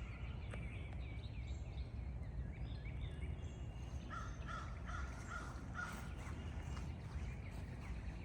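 Birds calling outdoors, with a cluster of short calls about four to six seconds in, over a low steady rumble.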